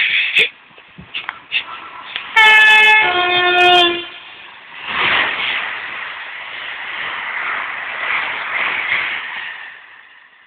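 Electric multiple unit sounding a two-tone horn, a short higher note then a lower one, as it runs through the station. It then passes close at speed, and the rush of wheels on rail swells and fades away.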